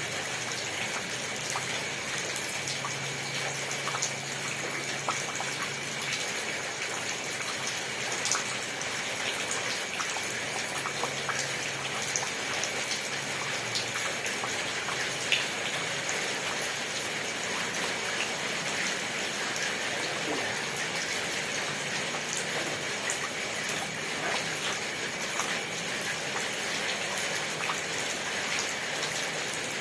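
Steady rain with many distinct drops pattering on a surface.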